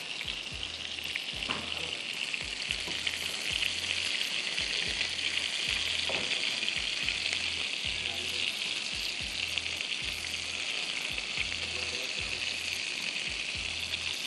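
Beef-mince kebabs sizzling steadily as they shallow-fry in a nonstick frying pan.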